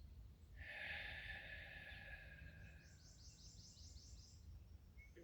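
Faint outdoor ambience with a low steady rumble. About a second in comes a soft breathy sound lasting about two seconds, followed by a bird's quick trill of about eight short high notes.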